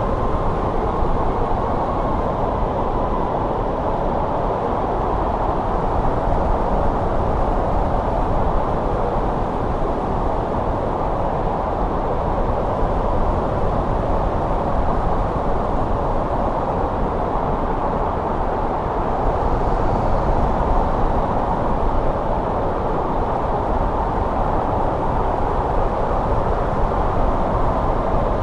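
Steady snowstorm wind: a dense, continuous rushing noise weighted toward the low and middle range, swelling only slightly.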